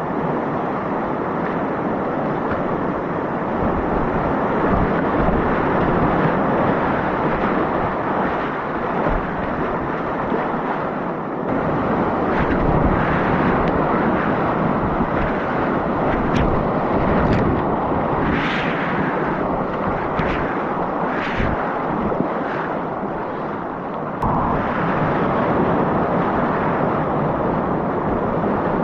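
Rushing river whitewater, a steady loud wash of noise with wind on the microphone. The sound shifts abruptly about a third of the way in and again near the end, and there are a few short, sharper splashes around the middle.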